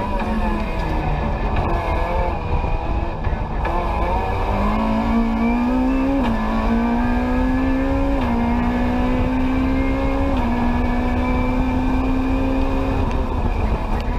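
Rally car engine heard from inside the cabin, pulling hard: its pitch climbs and drops back sharply three times as the driver shifts up through the gears, then settles lower near the end.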